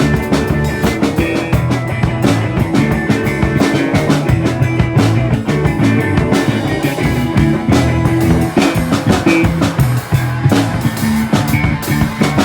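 Band music at a steady loud level: drum kit with frequent hits, electric guitar and bass in a rock or funk style.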